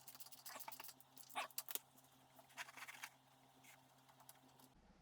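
Faint metallic clicks and scrapes from a wrench and the transmission drain bolt of a Harley-Davidson being worked loose, clustered in the first two seconds with a few more later. A steady low hum runs underneath and cuts off suddenly shortly before the end.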